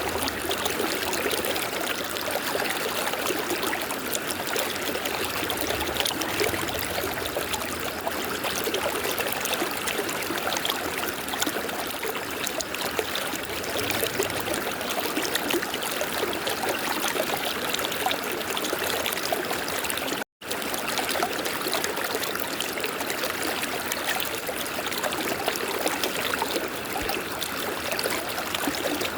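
River water flowing in a steady, even rush, with no other sound. It cuts out to silence for a split second about twenty seconds in.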